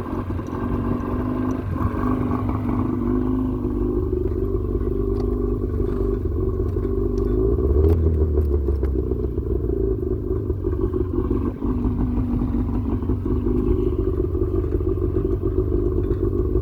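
50 hp Johnson outboard motor running steadily after a choked start. Its revs rise briefly about halfway through, then settle back to a steady run.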